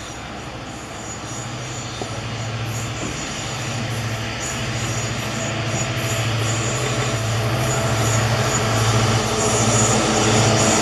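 Freight train led by twin EMD WDG4 diesel locomotives approaching: a low engine drone and rail noise growing steadily louder.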